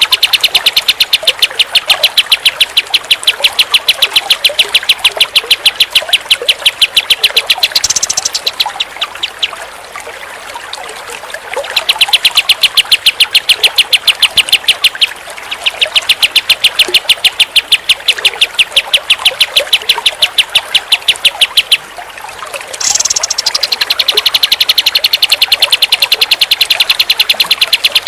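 White-shouldered triller (kapas tembak) singing a long, rapid, evenly spaced trill of high notes. The trill breaks off twice, about a third of the way in and near the end, each break opening with a brief higher note.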